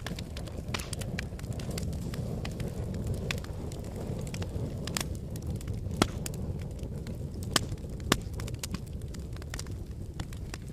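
Wood fire burning in a fireplace: a steady low rumble of flame with frequent sharp crackles and pops, the loudest pops coming about six, seven and a half and eight seconds in.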